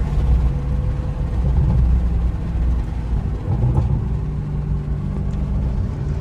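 Car engine and road noise while driving: a steady low drone.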